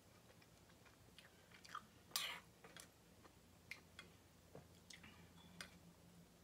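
A person chewing food close to the microphone, with scattered soft mouth clicks and smacks; one louder smack comes about two seconds in.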